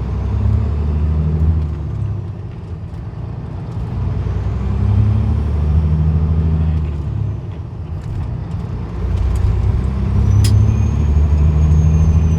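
A Peterbilt 379's 550 hp Cat C-15 diesel, heard from inside the cab, pulling away and working up through the gears: three spells of rising engine load with short dips between them as it shifts, and a faint whistle rising and falling with each pull. There is a sharp click near the end.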